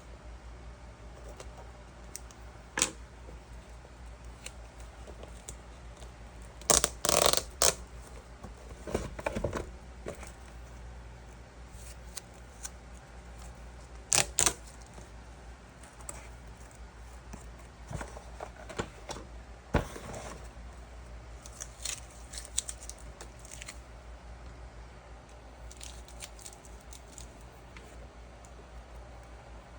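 Intermittent handling sounds: sharp clicks and knocks with short scraping or rustling bursts, the busiest stretch a quarter of the way in, over a steady low hum.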